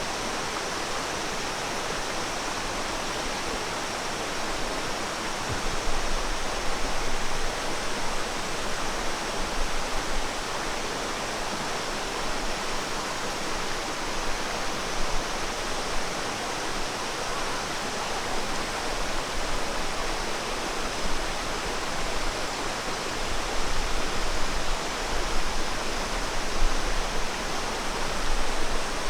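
Steady rushing of falling water, a waterfall's constant roar, with a low rumble that comes and goes.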